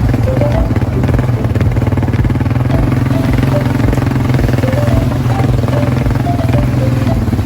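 ATV quad bike engine running steadily while riding.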